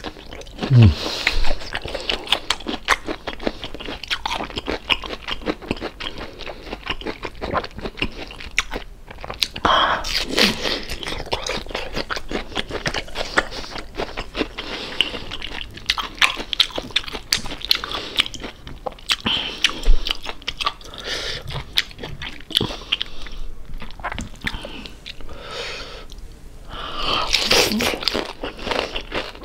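A person biting and chewing crispy deep-fried pork belly (lechon kawali), a dense run of crunching and crackling mouth sounds.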